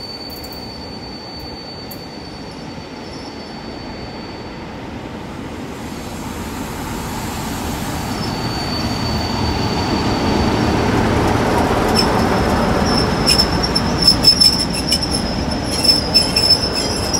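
Locomotive-hauled railtour train, headed by two class 47 diesels, rolling along the platform with its wheels squealing on the rails. It grows steadily louder over the second half, with clicks from the wheels near the end.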